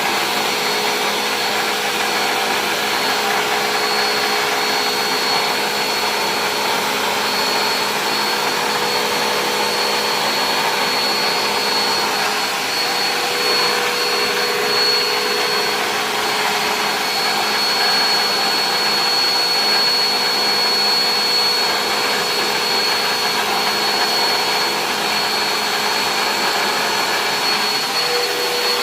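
Vacuum cleaner running steadily with a high, constant motor whine.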